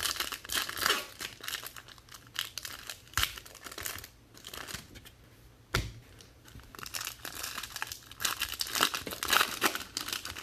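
Trading-card pack wrappers being torn open and crinkled by hand, an irregular crackling rustle with a few sharp clicks of cards or packs being handled.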